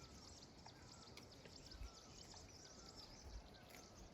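Faint outdoor ambience with small birds chirping now and then, short repeated chirps over a soft steady hiss, and a few low thumps.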